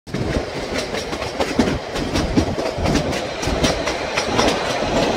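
Narrow-gauge train running, its wheels clicking over rail joints in a quick, uneven clickety-clack over a steady rumble of the coaches.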